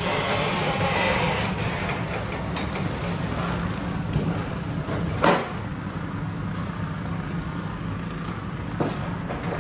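A steady engine hum running in the background, with a few sharp knocks, the loudest about five seconds in.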